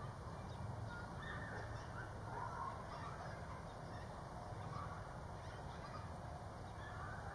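Faint, scattered short bird calls over a steady low background rumble.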